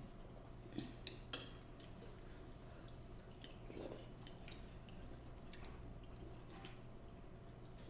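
Close-miked eating sounds: quiet chewing with scattered small clicks of cutlery against a plate or bowl, and one sharper click about a second and a half in. A faint steady low hum runs underneath.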